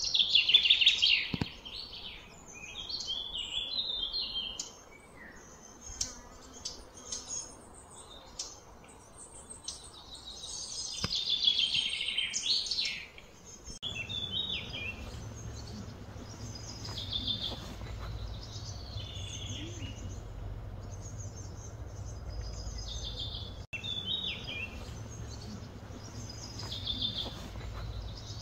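Outdoor birdsong: several birds chirping and warbling in short repeated phrases, loudest in the first couple of seconds and again about ten seconds in. A steady low hum joins about fourteen seconds in.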